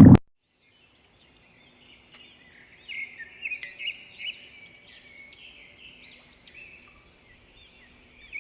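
A loud low rumble cuts off just after the start. From about three seconds in, faint birds chirp over and over, in short high notes that rise and fall.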